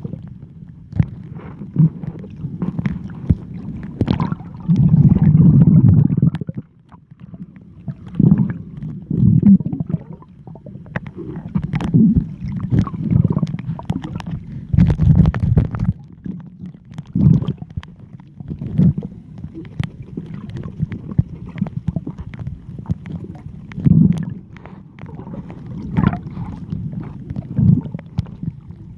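Seawater sloshing and gurgling close to the microphone in irregular low surges, with scattered small splashes.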